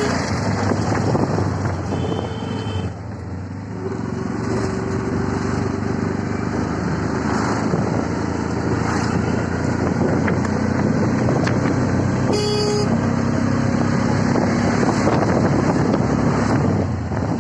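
Steady engine and road noise of a moving CNG auto-rickshaw in traffic, with short vehicle horn toots about two seconds in and again about twelve seconds in.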